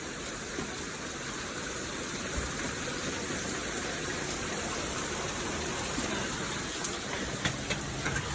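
Heavy rain pouring down in a steady, dense hiss. Near the end come a few sharp taps close by.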